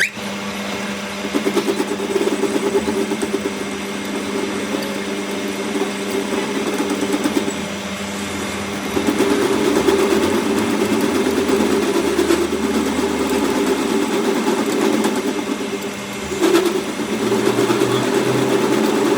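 Workshop machine running steadily under its motor: a constant hum with a fluttering, rattling drone, growing louder about nine seconds in and dipping briefly near the end.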